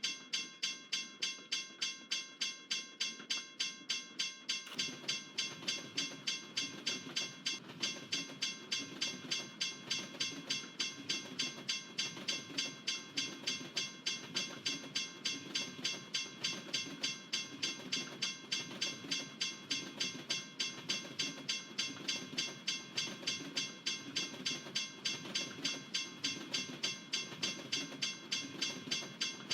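Railroad crossing bell ringing steadily, about three strokes a second. From about five seconds in, a passing freight train joins it, its wheels rumbling and clacking rhythmically over the rails.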